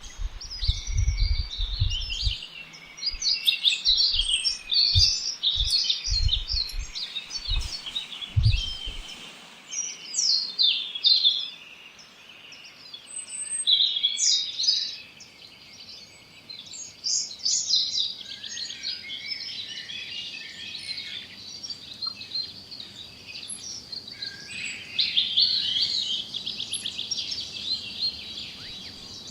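Songbirds chirping and singing over one another in a busy chorus, with a fast trill a little before the end. Low thumps in the first nine seconds.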